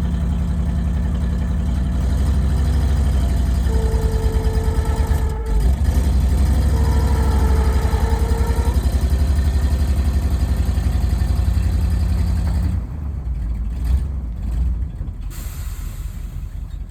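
Heavy dump truck engine running, with a steady whine that comes in twice for about two seconds each. About thirteen seconds in the engine sound drops off, followed by a few clicks and a short hiss.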